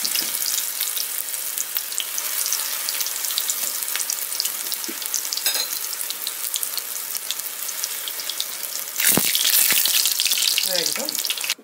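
Zucchini fritters (maakouda: grated zucchini, egg and flour batter) frying in hot oil, a steady dense crackling sizzle. About nine seconds in it grows louder for a couple of seconds, with a single knock, then cuts off sharply.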